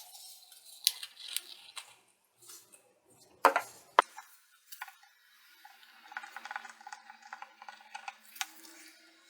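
Small hard objects being handled: scattered sharp clicks and knocks, two louder ones about halfway, then a run of quick light ticking near the end.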